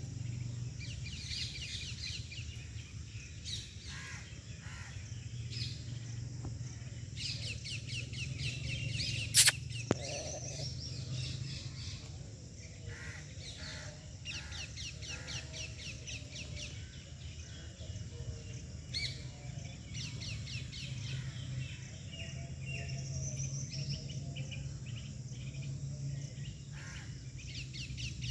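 Small birds chirping in quick twittering runs, over a steady low hum. A single sharp click about nine and a half seconds in is the loudest sound, with a fainter one just after.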